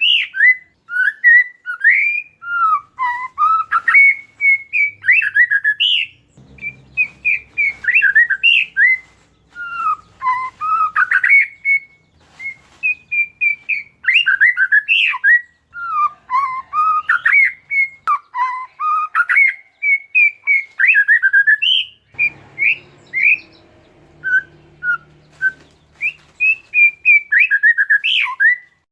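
Oriental magpie-robin (kacer) singing: a fast, varied string of sweet whistled phrases, slurred glides and sharp chattering notes, with short pauses between phrases.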